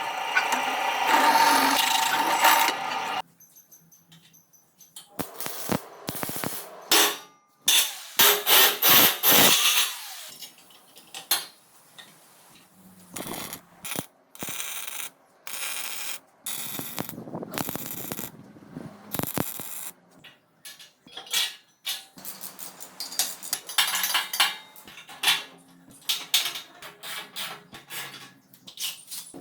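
Workshop tool sounds: a power tool runs for about three seconds and cuts off suddenly. Then comes an irregular string of clicks, scrapes and short bursts of tool noise.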